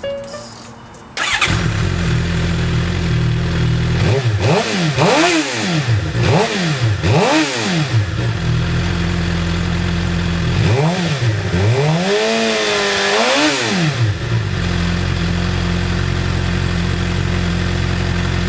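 Suzuki GSX-R 750's inline-four engine through a Two Brothers M2 exhaust, coming in suddenly about a second in and idling. It is blipped in four quick revs, idles again, then gets one quick blip and a longer held rev that wavers before dropping back to a steady idle.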